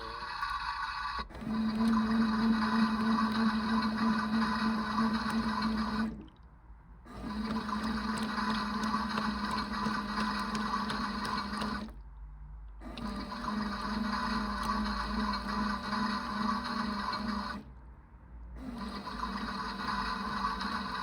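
Theo Klein toy washing machine running its wash cycle: the small drum motor hums steadily while the water in the drum swishes. The motor stops briefly three times, about every six seconds, and then runs again.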